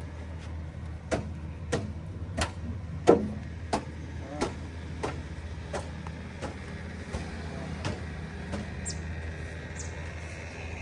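Tractor or backhoe loader engine running steadily, with a regular series of sharp knocks about every two-thirds of a second, loudest about three seconds in and fading toward the end.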